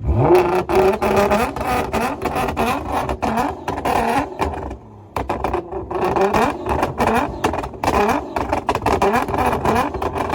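Gintani-tuned Ferrari's engine being revved hard over and over, the pitch rising and falling with each blip while the exhaust crackles and pops, the sound of its flame-shooting tune. There is a brief lull about five seconds in, then the quick blips resume.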